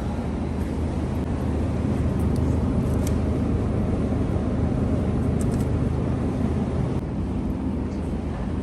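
Steady low rumble of a moving vehicle, with a few faint high ticks.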